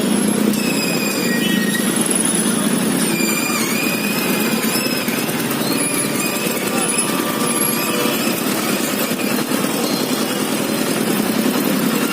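Motorbike riding through busy street traffic: a steady engine and road din, with short, thin high-pitched squeals coming and going over it.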